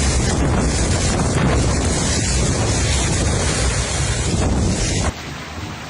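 Strong tornado wind blowing hard across the microphone, a dense rushing noise with heavy low buffeting. About five seconds in it cuts off abruptly to a quieter steady hiss.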